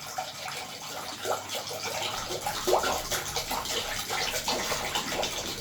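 Water being poured into a glass bowl, splashing as it fills.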